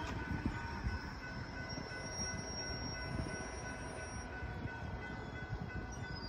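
Distant intermodal freight train approaching, heard faintly under a gusty low rumble. Steady high-pitched tones run throughout.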